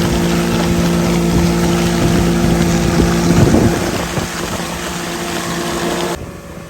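Motorboat engine running at a steady pitch under the rush of wind on the microphone. About three and a half seconds in there is a brief louder rush, and the sound cuts off abruptly near the end.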